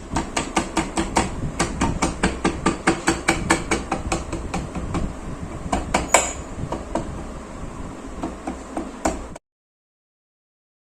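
A rapid series of sharp knocks, about four or five a second, like hammer taps. A louder, ringing strike comes about six seconds in. The knocks thin out and cut off abruptly about nine seconds in.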